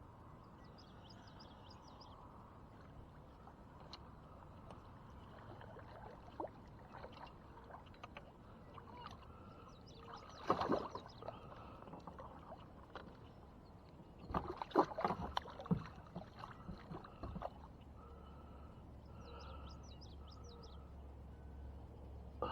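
Water splashing and knocking against a kayak, with a few sharper splashes and knocks in the middle, over faint bird chirps.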